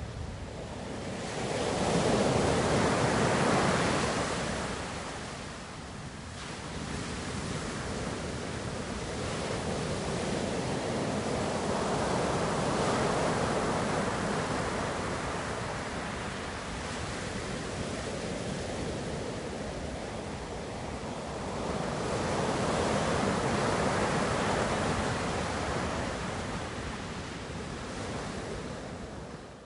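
Ocean waves breaking and washing on a shore, a steady rush that swells and ebbs, with three larger surges spaced about ten seconds apart. The sound fades out sharply at the very end.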